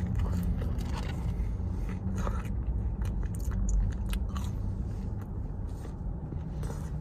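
A person chewing and biting into breaded chicken fries, with scattered crisp crunches and mouth sounds over a steady low rumble.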